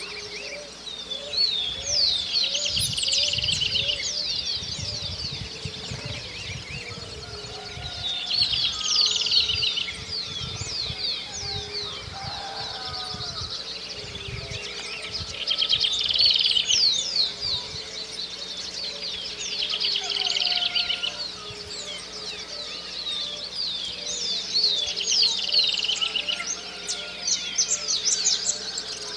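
Dawn bird chorus. One bird repeats a loud song of quick, high, descending notes that ends in a buzzy trill, about every five to seven seconds, over softer, lower calls from other birds.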